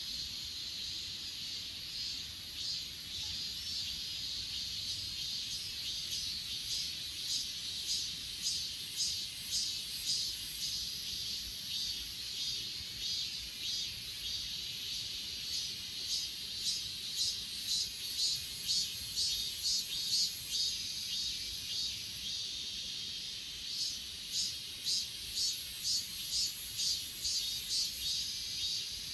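Grass insects such as crickets trilling in a steady high chorus, with a louder chirping pulse about twice a second that comes and goes several times.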